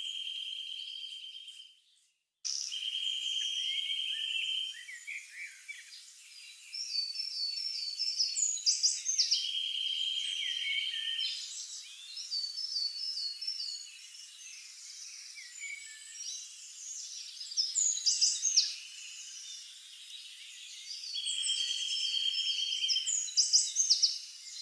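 Songbirds chirping and singing, with a repeated trilled phrase and many quick high chirps. The sound cuts out completely for a moment about two seconds in.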